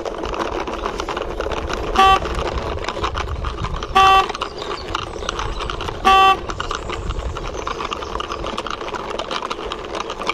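Hard plastic toy motorbike wheels rolling and grinding along rough concrete as the toy is pushed by hand. Three short, loud horn toots about two seconds apart cut across the rolling.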